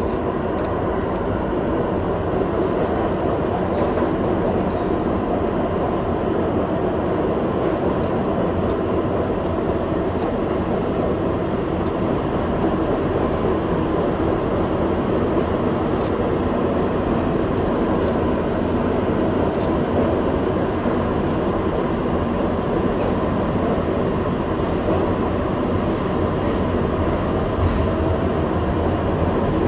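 Kawasaki R62 subway train running steadily along the track, a continuous rumble of wheels on rail with a faint steady tone above it.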